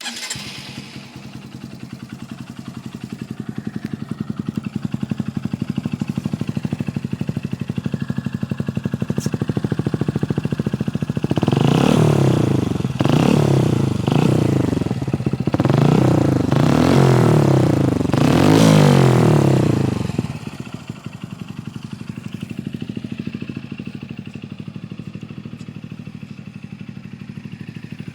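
A Honda CBF125's single-cylinder four-stroke engine, breathing through an aftermarket Devil exhaust, idling steadily. From about eleven seconds in it is blipped up in several quick revs, then drops back to idle at about twenty seconds.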